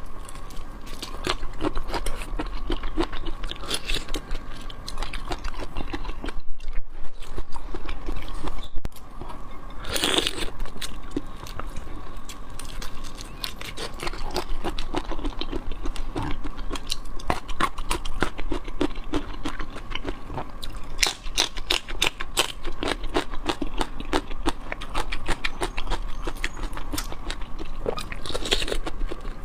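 Close-miked mukbang eating of raw seafood: continual crunching bites and chewing made of dense, irregular small clicks, with a few louder crunches. A faint steady tone sits underneath.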